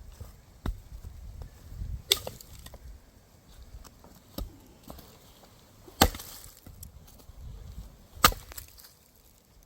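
Axe blows splitting firewood logs: about five sharp chopping strikes a couple of seconds apart, the loudest about two, six and eight seconds in.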